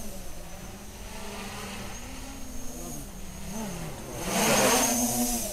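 Armattan CNC 355 quadcopter's motors and propellers buzzing, the pitch rising and falling with throttle. A little over four seconds in it passes close, with a loud whoosh of propeller noise lasting about a second.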